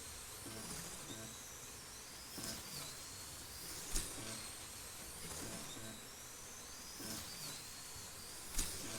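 1/32 scale NSR Mosler slot cars racing: their small electric motors whine high, rising and falling in pitch as the cars speed up and slow down around the track. A sharp click-like burst stands out twice, about four seconds in and near the end, about once per lap.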